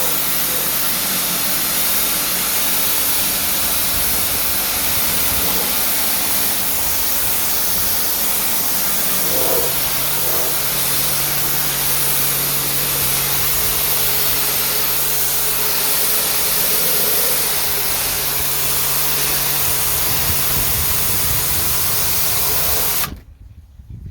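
Pressure washer spraying a synthetic teak boat deck: a loud steady hiss of the jet over the steady hum of its motor, cutting off suddenly near the end.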